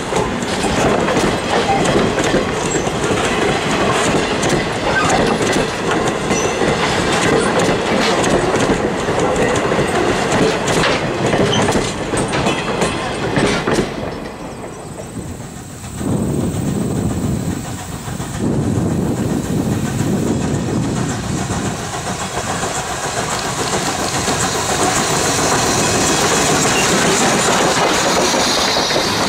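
Wooden passenger coaches rolling past close by, their wheels clicking steadily over the rail joints. After a short dip the train noise builds again, and a high hiss comes in near the end as the 1924 Baldwin 2-10-0 steam locomotive No. 90 passes.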